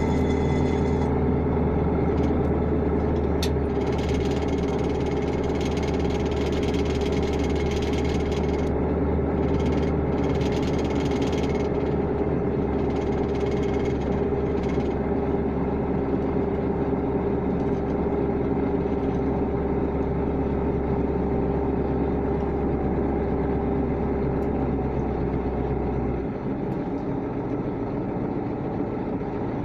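A KAMAZ truck's diesel engine running steadily, with a deep hum and a steady mid tone. About 26 seconds in the engine note drops and gets slightly quieter.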